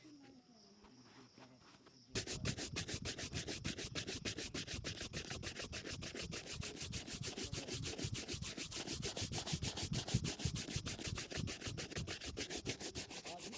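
Rapid, even back-and-forth rubbing strokes on a shoe as polish is buffed to a shine, several strokes a second, starting suddenly about two seconds in.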